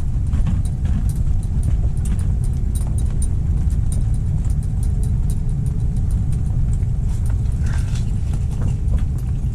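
Strong wind buffeting the microphone: a steady low rumble, with scattered faint ticks over it.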